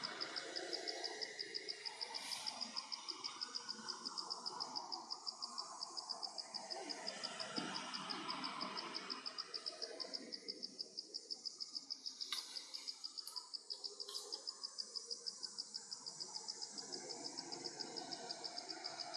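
An insect chirping in a steady, high, fast pulse of about five chirps a second, over a hiss of outdoor ambience. A few sharp clicks come around the middle.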